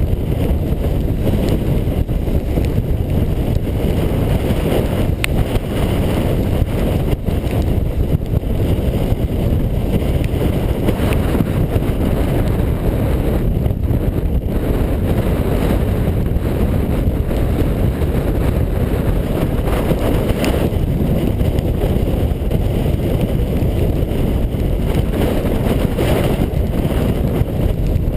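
Strong hurricane wind rumbling steadily on the microphone over heavy surf breaking on the shore.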